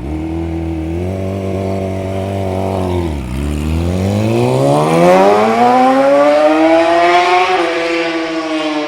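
2006 Yamaha R6's 600 cc inline-four through a Toce aftermarket exhaust, the bike being ridden. The engine note holds steady, dips sharply about three seconds in, then climbs steadily and gets louder as the bike accelerates, with a small drop near the end before it slowly falls away.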